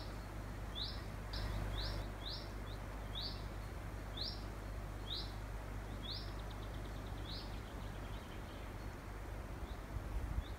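A small bird chirping: a string of short, high, rising notes, about one or two a second, thinning out after about seven seconds, over a steady low outdoor hum.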